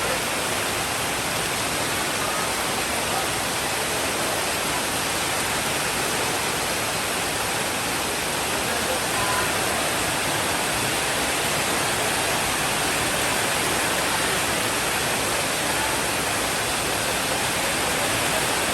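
Steady rainfall, a dense, even hiss that doesn't change.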